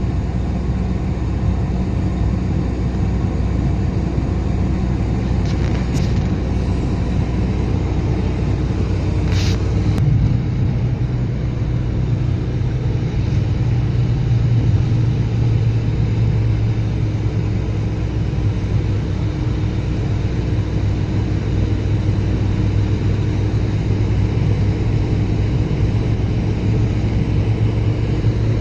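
A steady low rumble with a low droning hum, which shifts to a slightly higher, stronger hum about ten seconds in.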